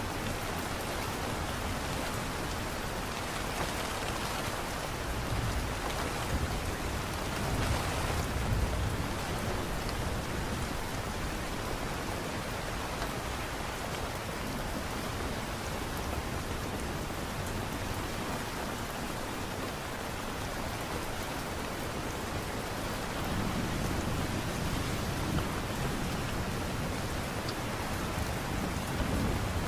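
Steady light rain, an even hiss, with low rumbles swelling about eight seconds in and again near the end.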